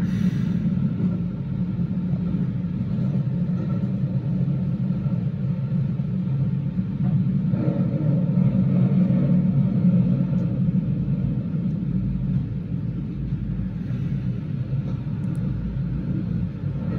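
Keio Line electric train running through a subway tunnel, heard from inside the front car as a steady, loud rumble of wheels on rail. It swells a little midway and eases slightly in the last few seconds as the train runs into a station.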